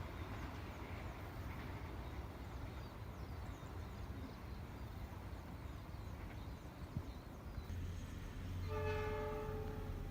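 Train running past with a steady low rumble, then a locomotive horn sounding once near the end, held for about a second and a half.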